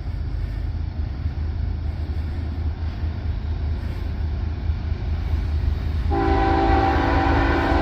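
CSX intermodal freight train rumbling past at speed. About six seconds in, a locomotive horn sounds a chord of several tones for about two seconds: the second train, racing up on the parallel main track.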